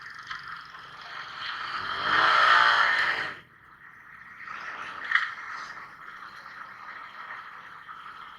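Riding noise from a Suzuki Smash 115 motorcycle on the road, heard through an action camera, with rattling and scraping. A loud swell builds from about a second and a half in and cuts off sharply after about three seconds, followed by a smaller rise with a sharp click around five seconds.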